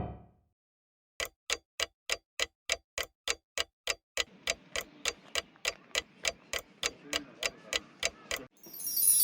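Steady, evenly spaced ticking, about three and a half ticks a second, like a clock ticking. It stops abruptly near the end, where a loud high hiss starts.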